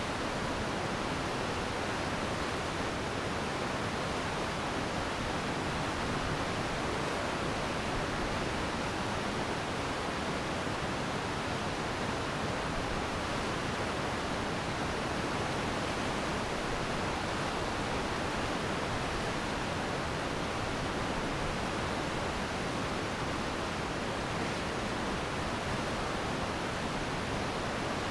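Glacier meltwater stream rushing steadily, an even, unbroken wash of flowing water.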